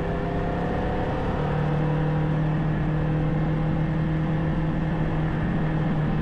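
Kawasaki Ninja 500 motorcycle's parallel-twin engine running steadily under way, with wind and road noise. The engine note firms up and holds steady about a second and a half in.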